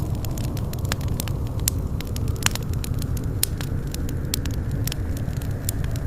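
Wood fire crackling in a fireplace: a steady low rumble of flames with many sharp pops and snaps, several a second.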